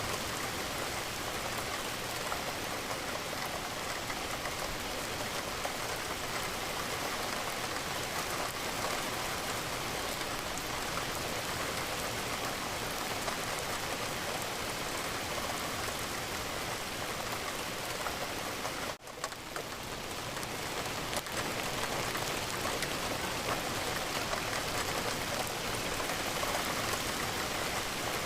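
Steady rain falling against a window, an even hiss with no other sound. About two-thirds through it briefly drops out and fades back in.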